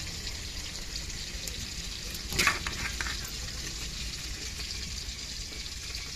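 Crumbled fish puttu sizzling in hot oil in a pan, a steady hiss, with one sharp utensil knock against the pan about two and a half seconds in.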